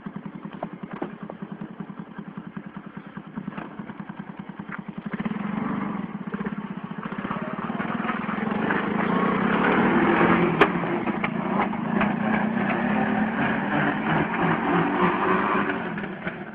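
Small Viglain engine on a bumper car, putting at a fast, even idle for about five seconds, then revving up and running harder, loudest about two-thirds of the way through, with one sharp click near the peak.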